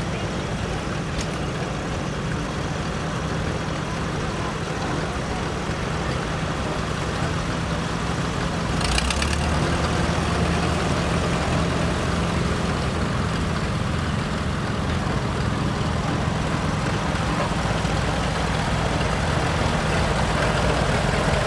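Old tractor engines running steadily, getting somewhat louder about eight or nine seconds in, with a brief hiss around the same time.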